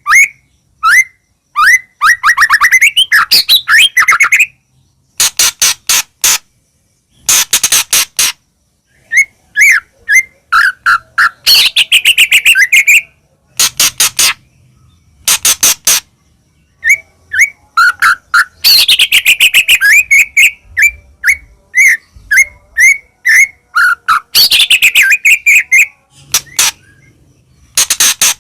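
White-rumped shama (murai batu) singing: loud, varied phrases of rapid chirps, whistled sweeps and fast rattling trills, with short pauses between phrases.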